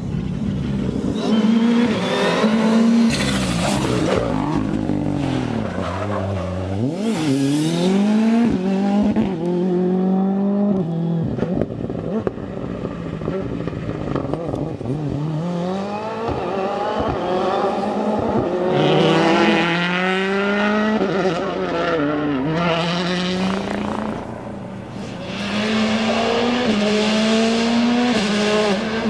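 Turbocharged four-cylinder World Rally Car engines at full throttle, the note climbing through the gears in steps at each upshift. Twice, about 7 and 22 seconds in, the note drops away under hard braking and downshifts, then climbs steeply again as the car accelerates out.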